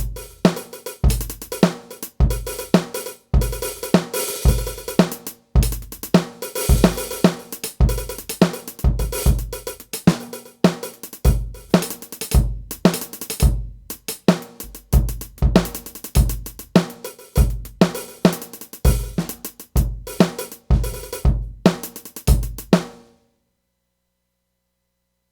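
Drum kit being played, with kick drum, snare and cymbals/hi-hat in a busy groove that stops suddenly near the end.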